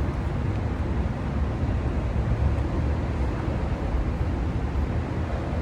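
Steady low outdoor rumble with no distinct events, of the kind made by street traffic and wind on the microphone.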